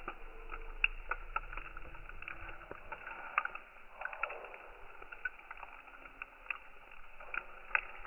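Firewood burning in a Uniflame firewood grill, crackling with irregular pops and a few louder snaps.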